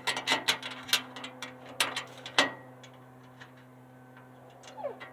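Metal wheelbarrow parts and hardware clicking and clinking as the axle side bracket and bolts are fitted together by hand. A quick run of sharp clicks and knocks in the first couple of seconds, then only a few lighter ticks.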